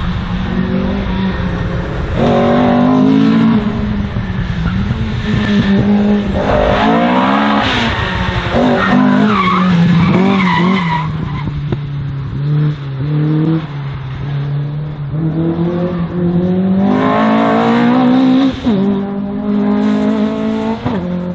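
Slalom race car at full effort, its engine revving up and falling off again and again as it accelerates and brakes between turns. Around the middle the tyres squeal through the turns.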